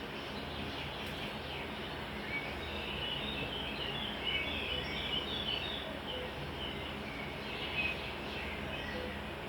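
Birds chirping in quick runs of short notes, busiest in the middle, over a steady low hum.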